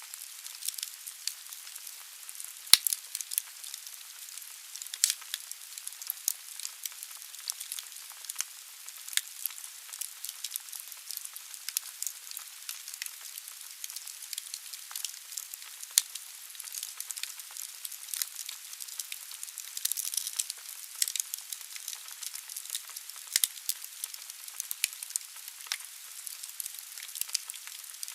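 Firewood burning in a fireplace: a steady hiss with frequent sharp crackles and pops, the loudest pops about three seconds in and again about sixteen seconds in.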